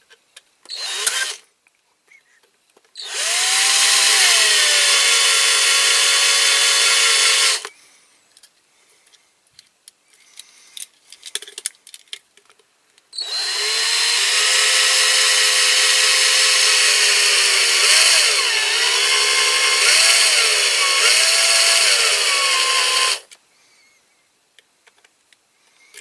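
Electric drill with a larger bit drilling out the rivets in a diecast toy car's base: a short burst, then two longer runs of about five and ten seconds, the motor whine dipping in pitch several times during the second run.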